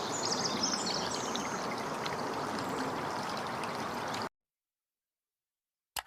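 Nature-sound recording of steadily running water with small birds chirping, the chirps in about the first second. The sound cuts off abruptly about four seconds in, followed by silence and a brief click near the end.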